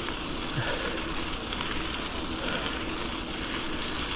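Steady rushing noise of wind on the microphone and bicycle tyres rolling on the trail during a ride.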